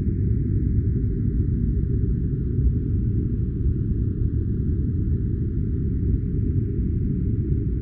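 Steady, unbroken deep noise with almost nothing above a low rumble and only a faint hiss higher up: a filtered 'white noise' sleep track.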